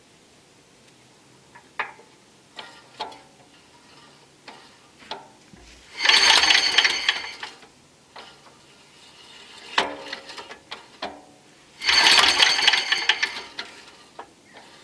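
A Briggs and Stratton engine being cranked over by hand twice, each pull giving about a second and a half of rapid mechanical clatter, with a few clicks and knocks before the first pull. It does not catch: there is no spark at the plug, which points to the ignition points or the coil.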